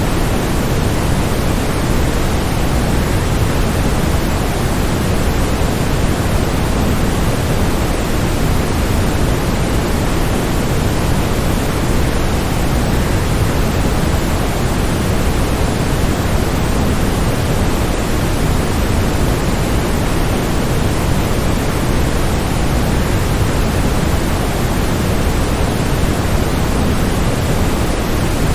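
Waterfall rushing steadily: a dense, unbroken noise, heaviest in the low end, with no separate splashes or changes.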